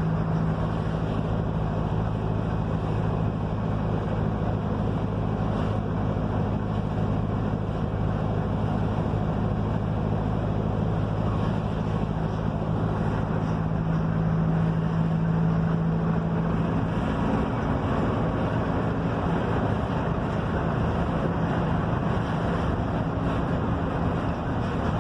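Mercedes-Benz OF-1721 bus's front-mounted diesel engine running steadily under way, over a constant rush of road and wind noise. About two-thirds through, the engine's note shifts slightly, as with a change in engine speed.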